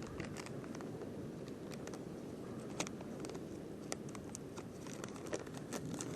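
Footsteps crunching along a nature trail: irregular crackles and sharp clicks over a steady low rustle.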